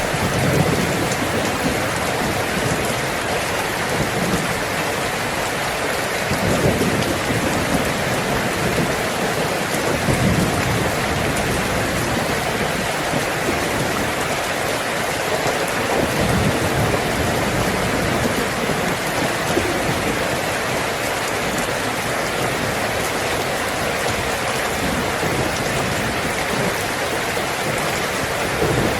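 Heavy rain falling steadily on a tin roof, with low rumbles of thunder coming and going.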